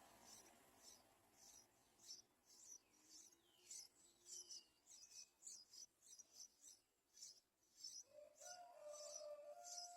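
Yellow-vented bulbul chick giving faint, high-pitched begging chirps, about two to three a second, as it waits to be fed. A lower, drawn-out tone joins near the end.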